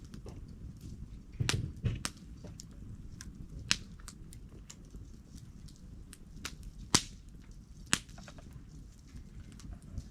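Wood campfire crackling, with sharp irregular pops over a low steady rumble of the flames. The loudest snaps come about a third of the way in and twice near the end, and there is a brief louder low rumble in the first two seconds.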